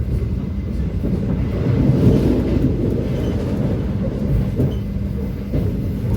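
Turangga passenger train running along the track: a steady low rumble of wheels on rails, with faint light ticks from the rail joints.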